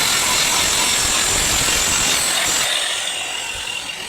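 Power tool grinding steadily, a loud high rasping noise that eases off about three seconds in.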